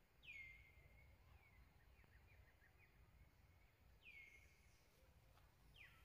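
Faint bird calls over a low rumble: a whistle that slides down and then holds, heard twice about four seconds apart, with a few short chirps between and a quick downward sweep near the end.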